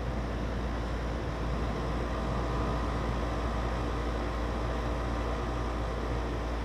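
Goodman 13 SEER condensing unit running steadily: a low compressor hum under the rush of the condenser fan, while it is being charged with R410A refrigerant.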